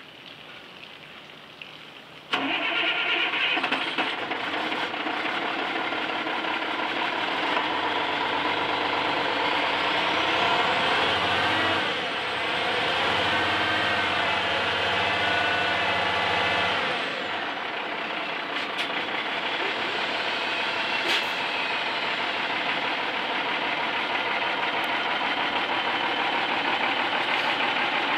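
Bucket truck's engine cranking and starting about two seconds in, then running. The engine speed climbs and holds higher for several seconds in the middle, then drops back to a steady idle.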